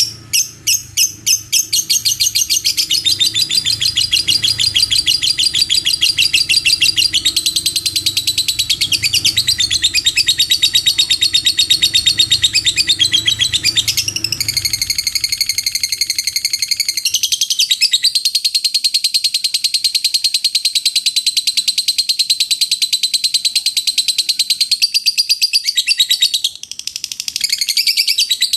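Lovebird ngekek: a long, unbroken run of rapid, high-pitched chattering notes. It opens as a few separate chirps, then runs together into a fast continuous trill, with a brief break about three-quarters through.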